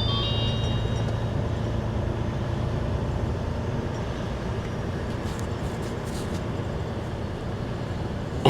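Steady in-cab drone of a truck tractor's diesel engine and road noise while driving, with a brief high tone right at the start.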